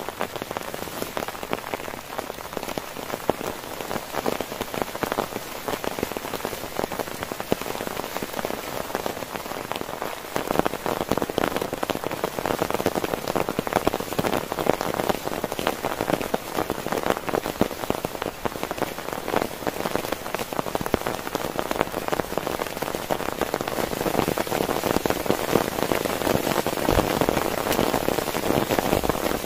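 Heavy rain falling on a tent, a dense patter of drops that grows heavier about ten seconds in and again near the end.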